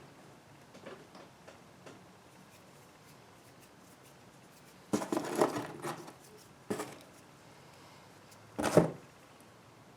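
Handling and work noises: a few small ticks, then a rattling, scuffing clatter about five seconds in lasting about a second, a sharp click near seven seconds, and a short knock near nine seconds.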